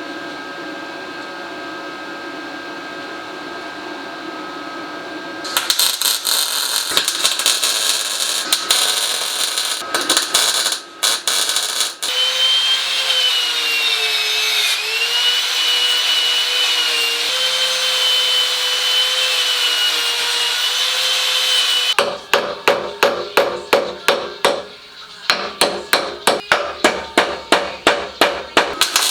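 Workshop tool work: a power tool runs steadily with a whine that dips and wavers under load, then a hammer strikes about three times a second in a fast, even run.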